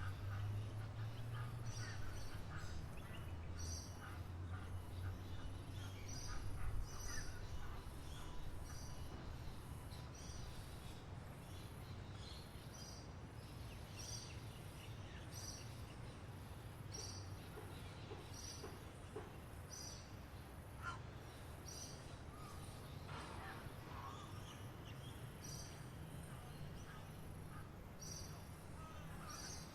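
Songbirds chirping. One bird repeats a short, high double note roughly every second or so, with scattered lower chirps from others over a low, steady rumble.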